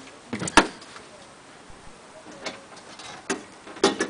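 Irregular knocks and clunks of people climbing up into a Boeing 747's airframe: one loud sharp knock about half a second in, a few softer ones after it, and two close together near the end.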